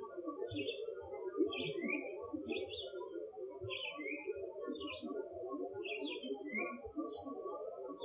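A songbird singing short repeated phrases, about one a second, some ending in a down-slurred note, over a steady low burbling background.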